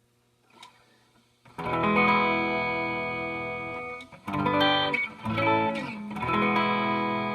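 Gretsch G3161 hollow-body electric guitar played through a Fender Excelsior tube amp: after about a second and a half of faint hum, a strummed chord rings out and slowly dies away, then a few quicker notes and chord changes, and a second chord rings out near the end.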